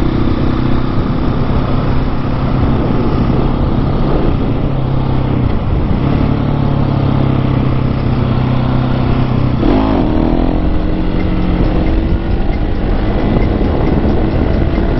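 Husqvarna 701 supermoto's single-cylinder engine running as the bike is ridden, over rushing wind noise. The engine note shifts in pitch about six seconds in and again with a quick sweep about ten seconds in.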